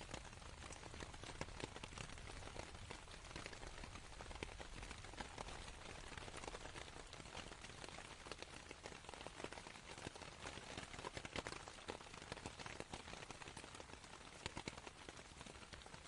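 Steady rain on a canvas tent, a dense patter of individual drops ticking on the fabric.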